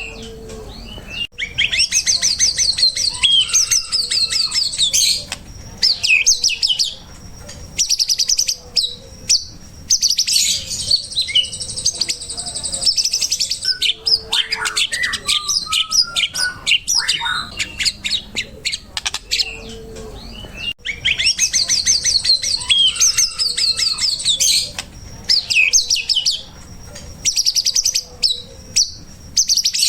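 Recorded songbird song played as a masteran training track: rapid high chirps, trills and whistled phrases in bursts with short pauses. The same sequence repeats about every 19 seconds, a looped recording.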